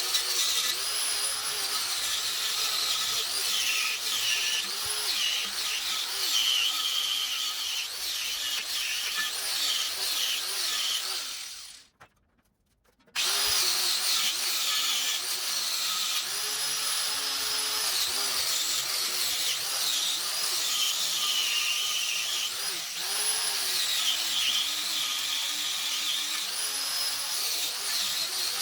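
Electric power tool running with a high whine whose pitch repeatedly dips and recovers as it is bearing into the work. It cuts out completely for about a second near the middle, then runs on.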